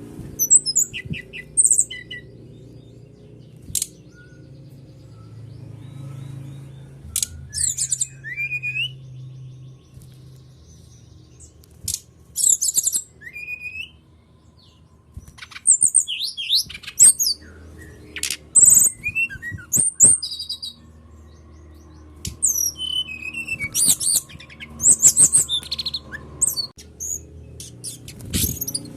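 Sikatan rimba dada coklat (brown-chested jungle flycatcher) song played as a lure track to set other birds singing: short high whistled phrases and quick chirps in bursts of a second or two, with pauses between, over a faint low hum.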